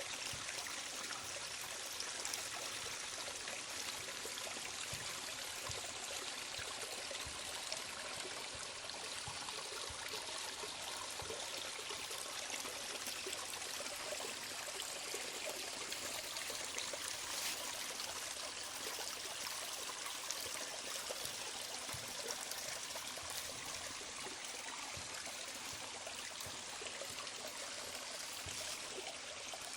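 Steady rain falling, a constant hiss of water with scattered drops ticking.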